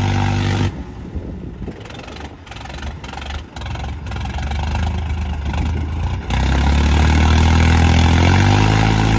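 Diesel tractor engines labouring under load in a tractor tug-of-war. A steady, loud engine note drops off abruptly a little under a second in to a quieter, rougher running. About six seconds in a loud engine note returns suddenly, and its pitch rises near the end as the engine is revved up.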